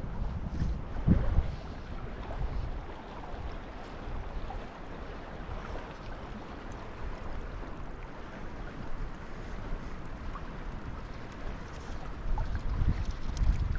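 Steady rush of river water under wind buffeting the microphone, with low rumbling gusts about a second in and again near the end.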